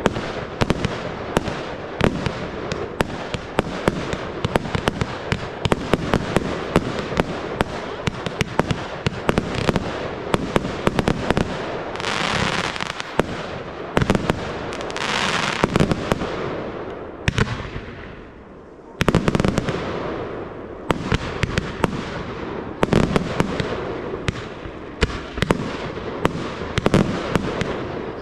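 Aerial fireworks display: a rapid, continuous barrage of shell bursts and sharp cracks. About halfway through there are two stretches of hissing crackle, then a brief lull before the bangs start again.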